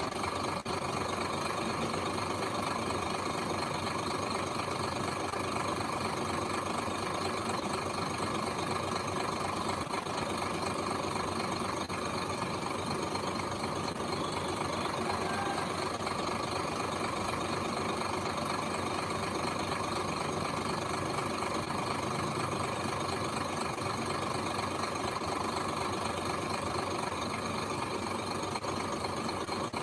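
Engine of heavy earthmoving machinery running steadily, with no change in pitch or level.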